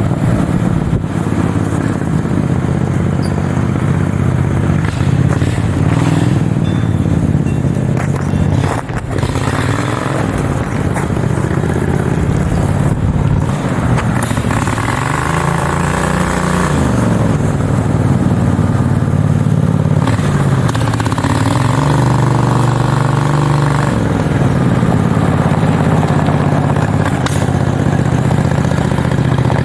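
V-twin engine of a large home-built mini bike running under load while being ridden, its pitch falling and rising again several times as the throttle is eased off and opened back up.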